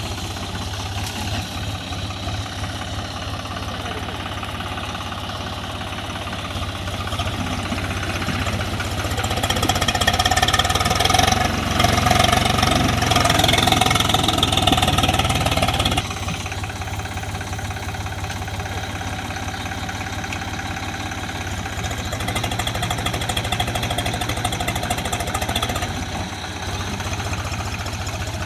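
Swaraj 735 FE tractor's three-cylinder diesel engine running steadily, getting louder and harsher about a third of the way in, then dropping back abruptly around the middle.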